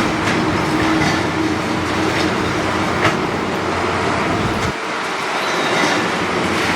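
Demolition excavator at work: the engine and hydraulics run steadily under scattered knocks and crunches of breaking debris, with one sharp knock about three seconds in. The low rumble drops away about two-thirds of the way through.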